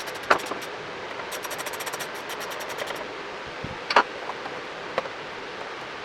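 Rapid runs of sharp clicks that stop about three seconds in, with single knocks shortly after the start and about four seconds in, the loudest of them near four seconds, over a steady hiss.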